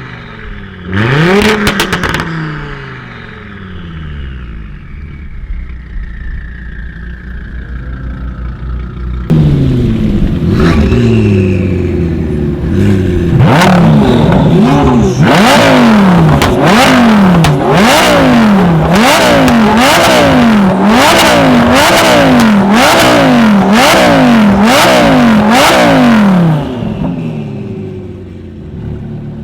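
Tuned car engine revved once, then after a lull blipped over and over, about once a second for some ten seconds, with sharp exhaust cracks at each blip, before dropping back toward idle near the end.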